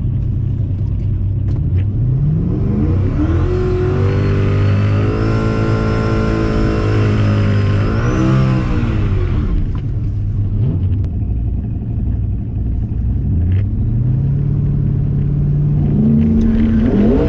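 Single-turbo Ford Mustang engine revving up and held at high revs for several seconds with a thin high whine over it, then dropping back to a lower steady run before climbing again near the end.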